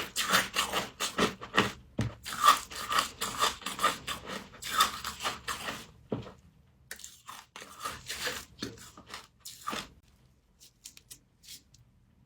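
Frost grown with a humidifier being bitten and chewed: dense crackly crunching for about six seconds, then sparser crunches, thinning to faint clicks after about ten seconds.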